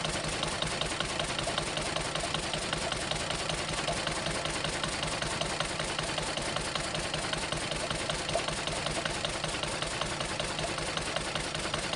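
Diesel engine running steadily with a fast, even knock, heard close to the spinning crankshaft pulley.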